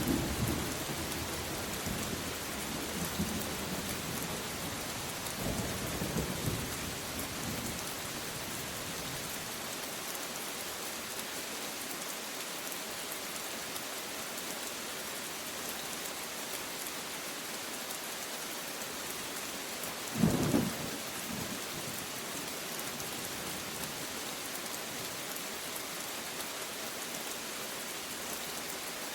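Steady rain with thunder rumbling on and off in the first several seconds. A short, louder thunderclap comes about twenty seconds in.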